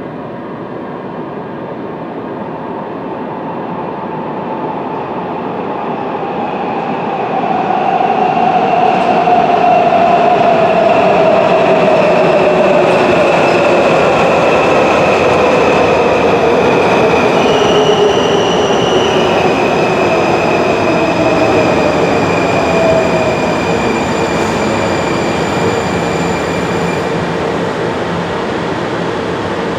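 Washington Metrorail subway train pulling in: it grows louder over the first several seconds, then its motor whine falls steadily in pitch as it slows, with a high steady squeal from the wheels.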